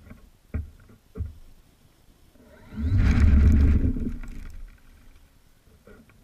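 Pulse XT40 radio-controlled model airplane making a fly-by pass: its sound swells over about half a second, peaks near the middle and fades away over about a second. Two short knocks come in the first second or so.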